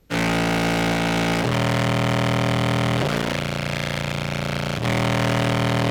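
Heavily fuzzed contrabass clarinet playing long, sustained low notes that change pitch about every one and a half seconds. It cuts in abruptly at full level. This is a recorded whole-range sample of the instrument played back through a fuzz pedal chain.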